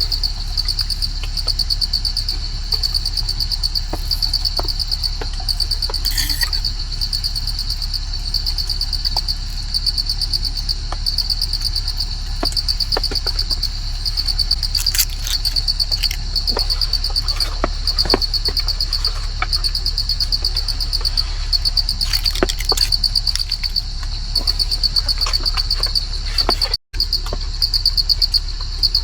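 Insects chirping in a steady, evenly pulsed high trill, over a low steady hum with scattered short clicks and taps.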